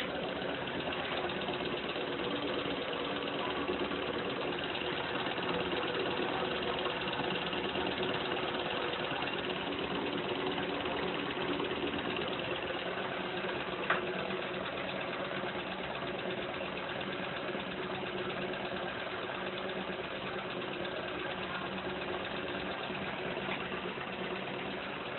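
Stirling engine running steadily, a constant mechanical whir with a steady hum, with a single sharp click about halfway through.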